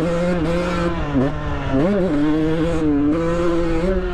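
Dirt bike engine running under throttle, with wind rushing on the helmet microphone; the revs dip about a second in and swing back up, then shift again near the end. The rider says right afterwards that the bike powered out for a second.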